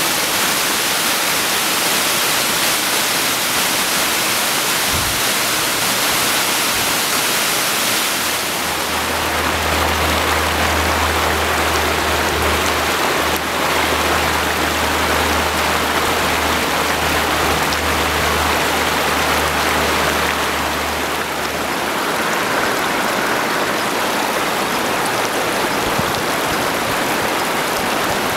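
Rushing floodwater and rain, a loud steady noise. A low hum joins about eight seconds in and stops around twenty-two seconds.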